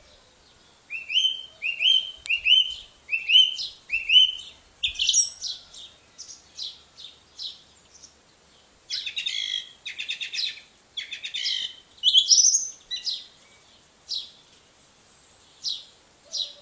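Birdsong: a run of five rising notes about one a second, then faster, more varied phrases and trills.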